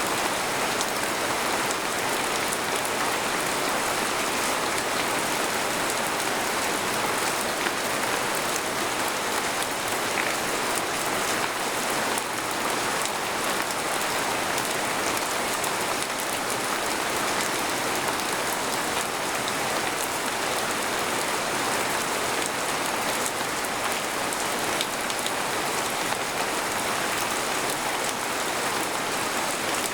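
Steady rain falling on a tent, a dense, even hiss of many small drop ticks with no thunder and no change in strength.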